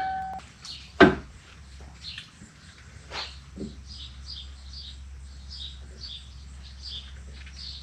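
A sharp knock about a second in, then two lighter clicks, over a run of faint, short, high chirps like small birds calling.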